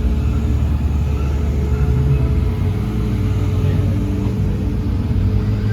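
A car engine running with a steady low rumble, its pitch holding fairly even.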